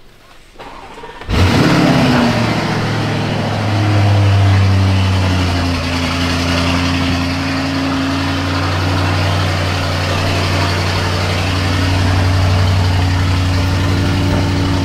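Car engine starting about a second in, flaring up in revs as it catches, then settling into a steady idle.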